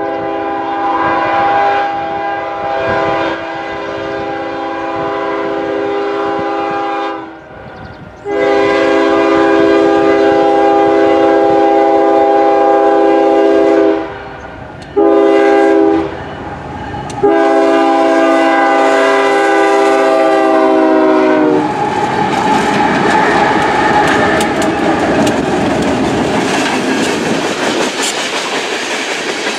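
Diesel locomotive air horn sounding a multi-note chord in the grade-crossing pattern: two long blasts, one short and a final long one. About 22 seconds in the horn stops and the passing train takes over, with the lead locomotives' engines running and the wheels clattering on the rails.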